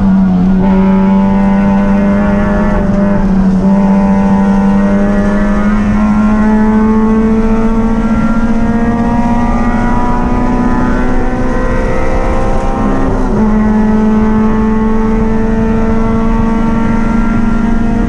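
Race car engine running hard at high revs, its pitch climbing slowly as it pulls. About 13 seconds in there is a brief break in the note, then it holds steady at high revs.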